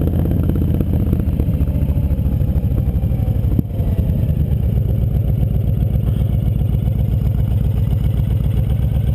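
Motorcycle engine running under way, with an even, rapid beat of exhaust pulses; a brief break about three and a half seconds in.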